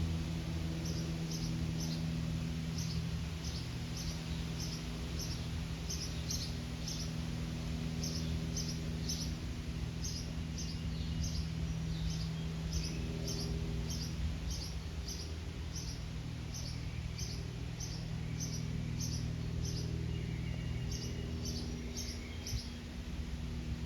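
Cessna 182A Skylane's six-cylinder Continental O-470 engine and propeller droning steadily, with a small bird chirping about twice a second. The drone rises a little a couple of times.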